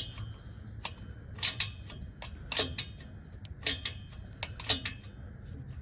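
Sharp metallic clicks of hand tools on metal, single or in pairs, about once a second, with a low hum underneath.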